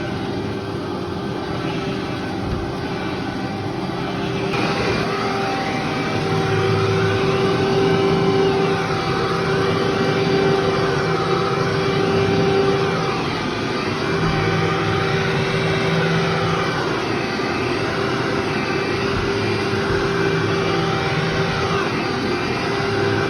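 Vacuum cleaner running over carpet: a steady motor hum with a whine that rises and falls about every two seconds. It gets louder and brighter about four to five seconds in.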